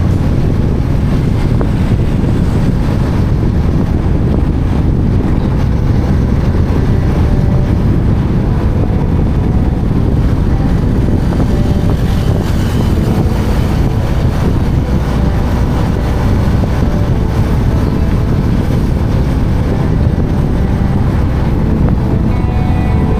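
Steady, loud wind noise buffeting the microphone of a camera on a moving motorcycle, heaviest in the low end, with no break.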